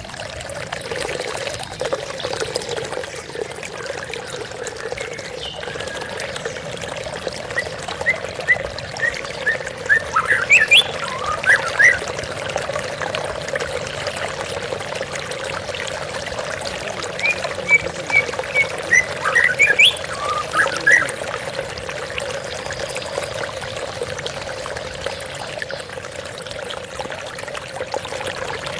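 Flowing water running steadily, with a white-rumped shama singing two short phrases, one about eight seconds in and one about seventeen seconds in. Each phrase is a quick string of short notes followed by rising and falling whistles.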